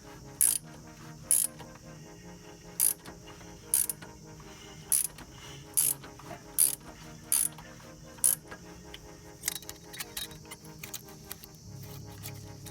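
Sharp metallic clicks about once a second, then a quicker run of lighter clicks about ten seconds in, with quiet background music under them.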